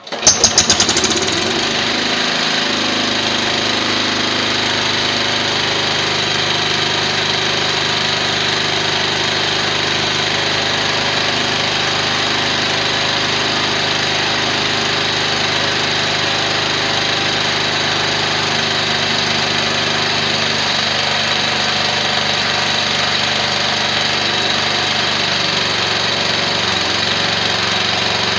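12 hp Briggs & Stratton engine on a temporary exhaust starting up: a brief loud surge as it catches, then running steadily at an even speed, not as quiet as its label says.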